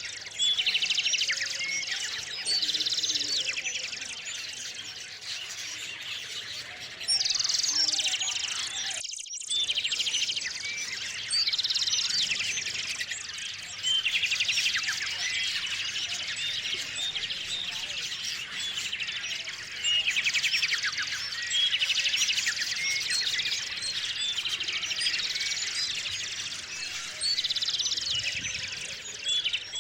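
Many small songbirds chirping and twittering together in a dense, continuous chorus of short high calls and trills, swelling in busy clusters every few seconds, with a brief break about nine seconds in.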